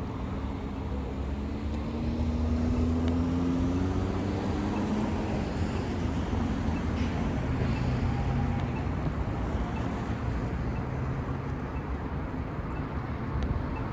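Bus engine accelerating past, its pitch rising over the first few seconds, then settling into a lower steady drone under general traffic noise.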